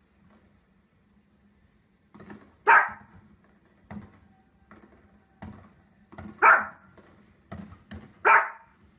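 A dog barking: after a short quiet start, three loud single barks roughly two seconds apart, with fainter sounds between them.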